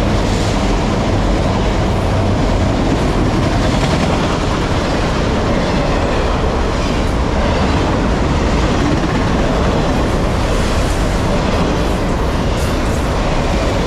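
Freight train of autorack cars rolling past close at speed: a steady, loud noise of steel wheels on rail.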